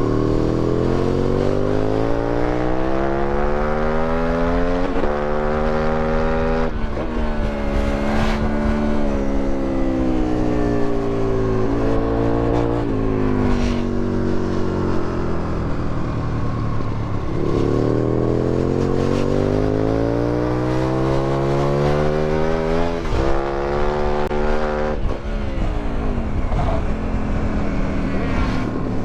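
2008 Aprilia Tuono 1000R's V-twin with an Akrapovic exhaust, revving hard through the gears. The revs climb in several runs, each cut by a sudden drop at an upshift, and twice they fall away slowly as the bike slows before pulling up again.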